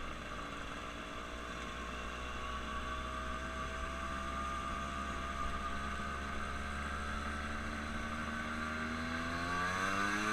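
Engine running steadily, its pitch slowly rising. Near the end another engine passes close by, its pitch dropping as it goes away.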